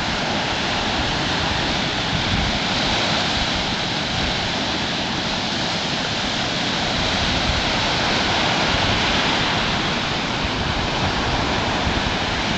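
Ocean surf washing onto a beach, a steady rushing noise that swells slightly past the middle.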